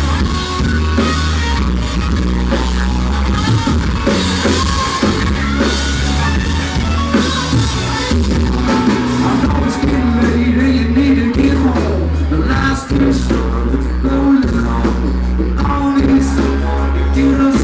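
Live country band playing loud through a PA: drums, bass and guitar. The audience recording is poor, with a heavy, booming bass.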